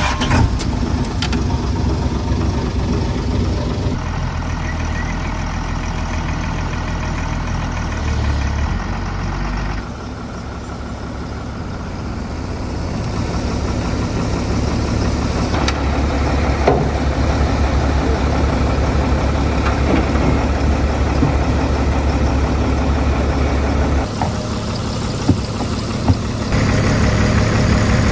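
Heavy machinery's diesel engine running steadily, with a few short knocks. The tone and level change abruptly several times.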